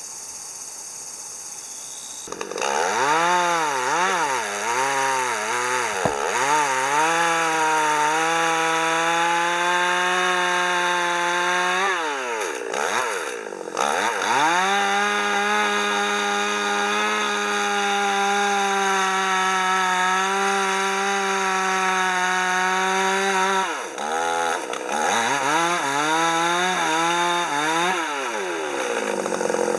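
Two-stroke chainsaw cutting wood: after about two seconds it revs up and down several times, then holds a steady pitch under load through two long cuts, its speed dipping briefly between them, and revs up and down again near the end.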